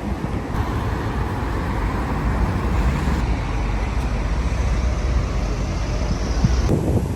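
Steady low rumble of road traffic, with the background noise changing abruptly twice, about half a second in and near the end.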